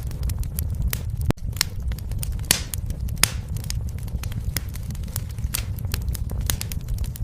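Fireplace fire crackling: frequent sharp pops and snaps, a few louder than the rest, over a steady low rumble of the flames.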